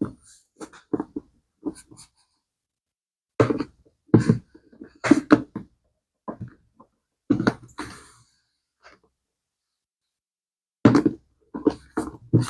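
Irregular short knocks and rubbing noises from handling a bag as it is being cleaned by hand, in bursts with quiet gaps between.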